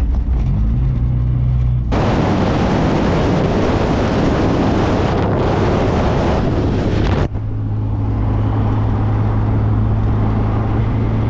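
MG Midget's four-cylinder engine running steadily as the car drives. From about two seconds in until about seven seconds, a loud, even rushing noise covers it, then stops suddenly.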